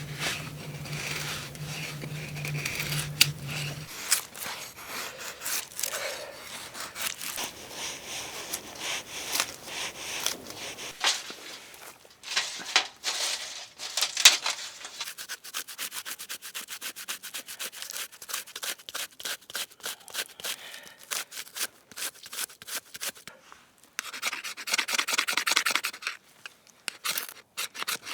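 Repeated rubbing and scraping strokes with sharp clicks, coming faster and denser from about halfway through, and a low steady hum for the first few seconds.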